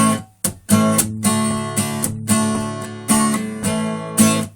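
Acoustic guitar strumming the intro to a song: a run of rhythmic chord strums with brief stops between them.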